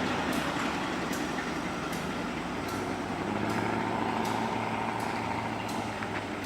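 GE B23-7 diesel-electric locomotive's diesel engine running steadily, with sharp regular ticks about every 0.8 seconds over it.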